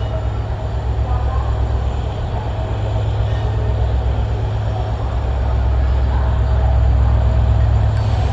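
A train running past on the track: a steady low rumble that slowly grows louder toward the end.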